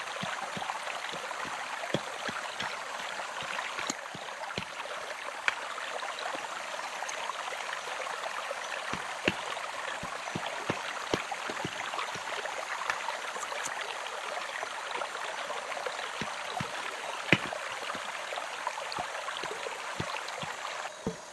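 Running water: a steady rush with many small splashes and clicks through it.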